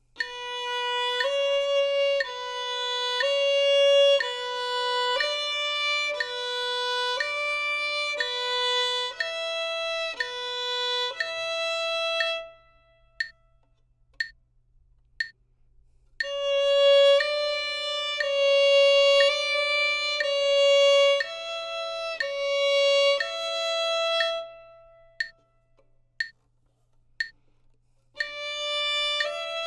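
Solo violin playing a slow practice exercise in three short phrases of bowed notes moving between a few neighbouring pitches. In each pause between phrases, three steady ticks about a second apart count in the next phrase.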